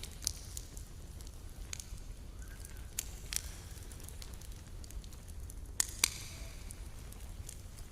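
Campfire crackling: scattered sharp pops and snaps over a low steady rumble, with a louder double pop about six seconds in.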